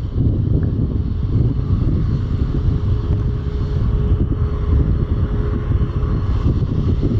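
Wind buffeting the microphone in a heavy low rumble over the steady running of a Boeing 737-8 MAX's CFM LEAP-1B jet engines, with a faint steady tone for a few seconds in the middle.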